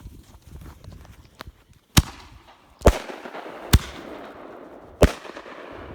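Pyro Demon 'Hell's Shells' aerial ball-shell fireworks, two shells going off: four sharp bangs about two, three, three and three-quarters and five seconds in, the lift charges and the bursts.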